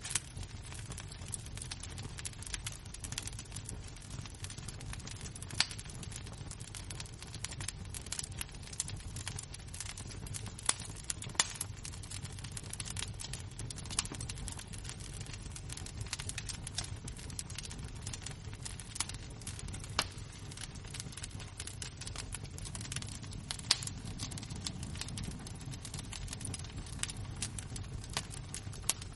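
Glowing embers of a wood fire crackling, with irregular small clicks and a few louder sharp pops over a steady low rumble.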